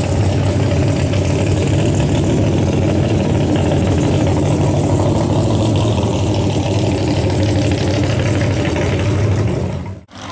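A mud-racing truck engine idling steadily, then the sound cuts off abruptly near the end.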